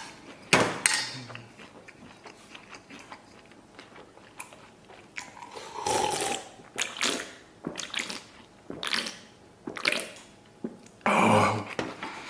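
A person eating close to the microphone: biting and chewing mouthfuls of chili-fried pork belly and rice, with many irregular small clicks and a louder noisy burst about six seconds in and again just after eleven seconds.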